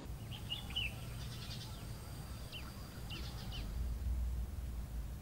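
Small birds chirping: three short groups of quick high calls, over a faint low rumble.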